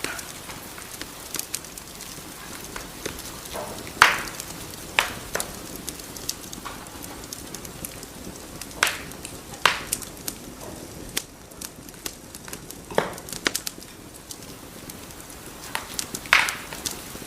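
Wood fire in a fireplace crackling over a steady low hiss, with irregular sharp pops; the loudest come about 4, 9, 13 and 16 seconds in.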